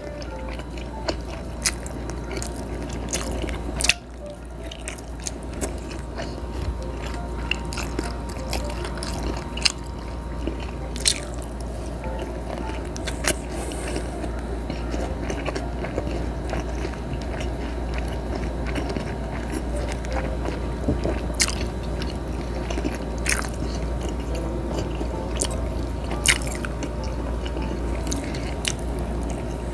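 Close-miked chewing and biting of grilled food, a continuous mouth-noise texture broken by scattered sharp clicks, over a steady low hum.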